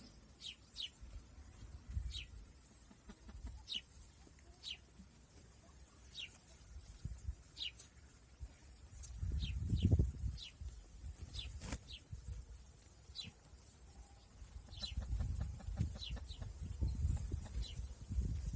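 A bird chirping over and over: short, falling chirps about once or twice a second. A low rumbling noise rises twice, about halfway through and again near the end.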